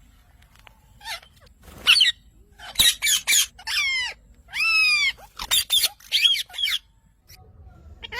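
Pet parrot squawking: a run of short, harsh, high-pitched calls starting about two seconds in, with one longer drawn-out screech in the middle.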